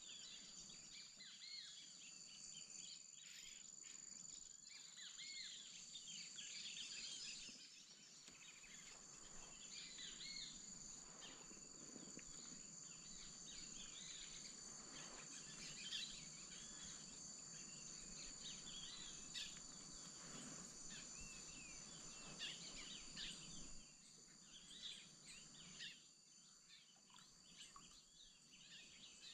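Amazon wetland ambience: a steady high insect drone, with many scattered bird calls and chirps over it. It grows a little quieter near the end.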